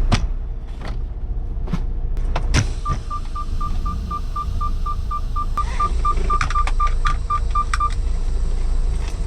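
Steady low rumble of a semi truck heard from inside the cab. About three seconds in, a short electronic beep starts repeating rapidly at about four a second for some five seconds, with a few sharp clicks among the later beeps.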